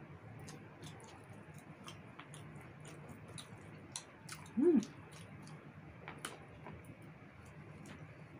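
Close-miked eating of roast chicken: chewing with many small wet mouth clicks and lip smacks. About halfway through a short hum of the voice rises and falls once.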